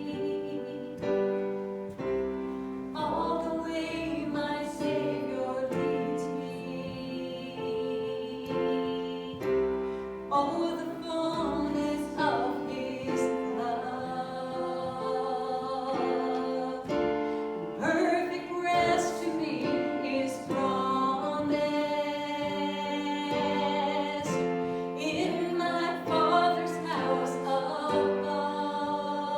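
Singing with piano accompaniment, a hymn or gospel song sung in church.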